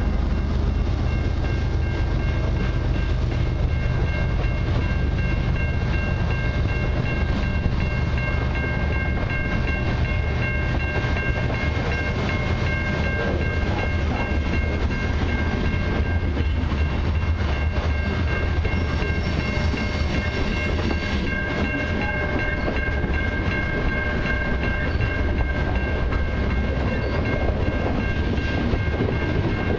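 Freight train cars (covered hoppers and tank cars) rolling steadily past, with a continuous low rumble and clatter of steel wheels on the rails. A steady high-pitched ringing tone sits over the rumble from about a second in.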